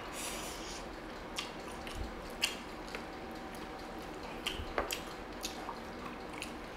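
Quiet, close-miked eating: wet chewing and mouth sounds, with a dozen or so short soft clicks scattered through.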